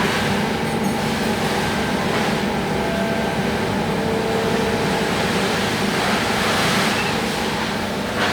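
Steady mechanical rumble with a hiss, unbroken and even in level.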